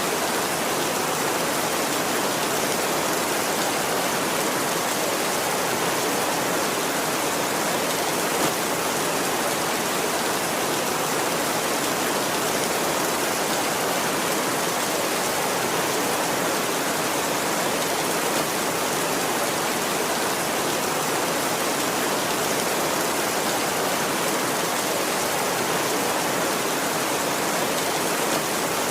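Heavy rain drumming steadily on a tin roof, an even unbroken hiss.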